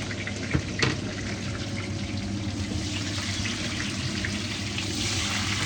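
Onions sizzling in hot oil in a pan, with two sharp knocks under a second in; the sizzling hiss grows stronger in the second half.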